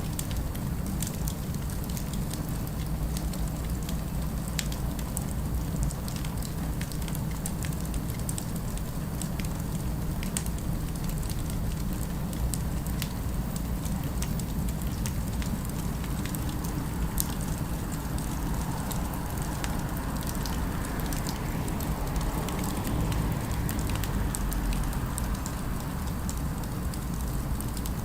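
Crackling fire with many small sharp pops and snaps over a steady low rumble, with a faint broad hum in the middle range partway through.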